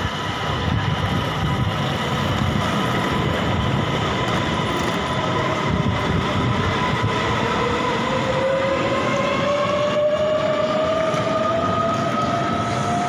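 SJ X2000 high-speed electric train pulling in alongside the platform: a steady rumble of wheels on rail under whining tones from the running gear. From about eight seconds in, a whine slowly rises in pitch.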